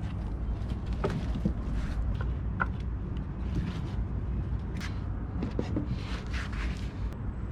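Wood campfire crackling, with irregular snaps and pops over a steady low rumble.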